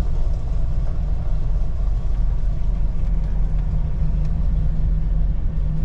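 Vehicle engine running with a steady, deep rumble, heard from inside the vehicle as it moves slowly onto the site.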